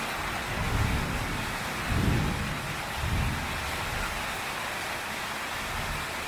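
Heavy rain pouring steadily onto a tin roof, with a thunder rumble rolling through in three low swells between about one and three seconds in, the middle one the loudest.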